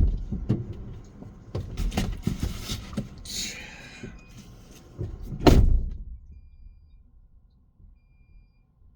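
Knocks and rustling around a car, with a scraping hiss about three seconds in and a heavy thump about five and a half seconds in, then quiet: a car door being shut.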